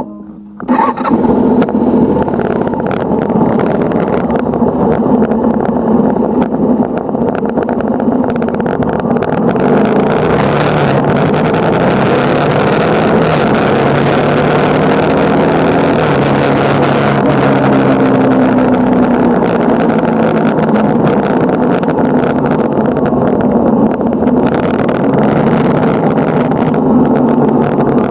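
Motorcycle engine starting about a second in, then running and pulling away, its pitch rising and falling as it accelerates. From about ten seconds in, wind rushes over the microphone.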